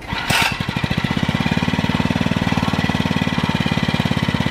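A mini bike's small engine starting up, with a short sharp burst about a third of a second in, then running steadily with a fast, even beat.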